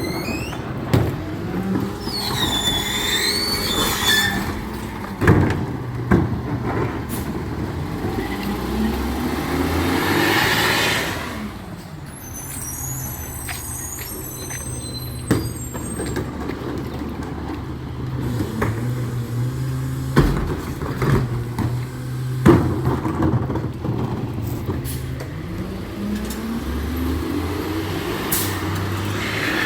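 Recycling truck working: its diesel engine runs steadily under a series of sharp metal clanks and bangs. A high squeal comes about two seconds in, and a long hiss of air about ten seconds in.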